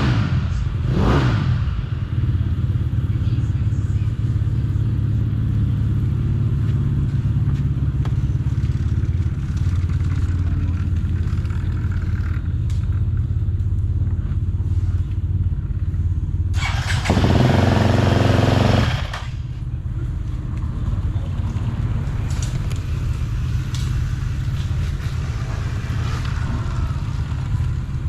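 Motocross bike engine revving twice, then running steadily at a low drone. About seventeen seconds in, a loud hiss lasts roughly two seconds.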